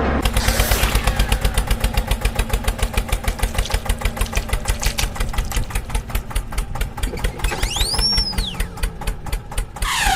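A vehicle engine running with a fast, even chugging, and about eight seconds in a short whistle that rises and falls.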